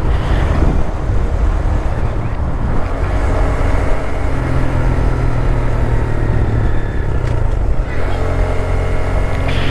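Wind buffeting a helmet chin-mounted microphone while riding a Honda Grom, with the bike's 125 cc single-cylinder engine running underneath at steady speed. A steady engine note comes through more clearly from about halfway.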